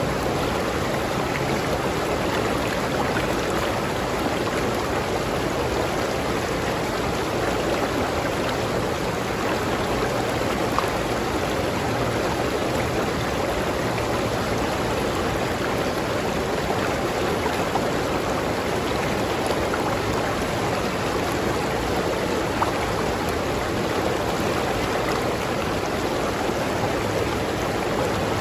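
River water flowing over rocks: a steady rushing and babbling with small splashes.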